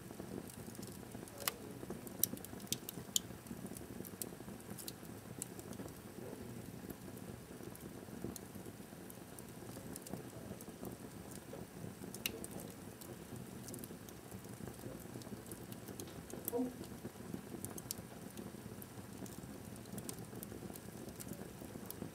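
Wood fire burning in a fireplace, crackling: sharp pops scattered over a low, steady rush of the flames, the pops coming thicker in the first few seconds.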